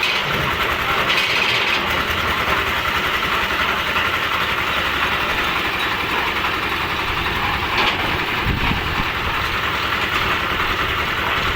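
Concrete mixer machine's engine running steadily, with a dense low rumble.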